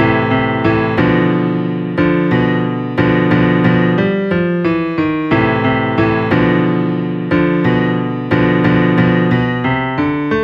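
Keyboard music: a short phrase of struck, piano-like notes, about three a second, each fading before the next, repeated over and over.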